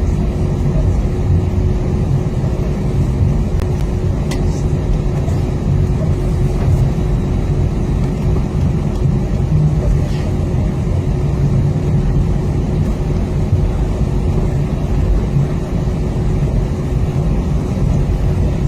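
Steady low rumble heard inside the cabin of an Airbus A320-232 taxiing on the ground, its IAE V2500 engines running at low power with a constant hum.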